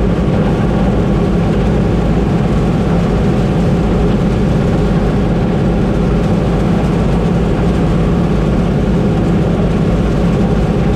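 Combine harvester's diesel engine running steadily, a constant low drone.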